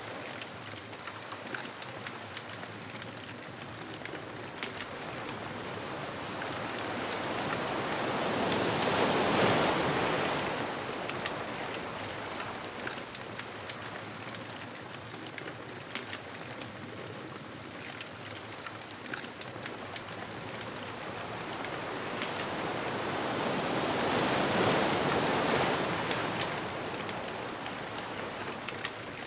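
Ocean surf washing onto a beach, a steady wash of water noise. It swells into a breaking wave twice, about a third of the way in and again near the end.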